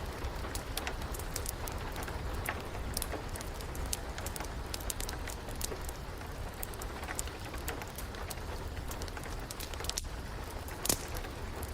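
Wood fire crackling with irregular sharp pops, one louder pop near the end, over a steady hiss of rain.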